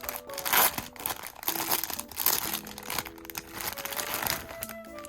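Packaging crinkling and tearing in irregular bursts as a parcel is opened by hand.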